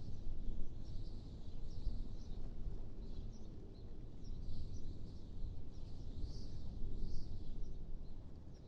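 Wind blowing with a steady low rumble, under scattered high chirps that come every second or so.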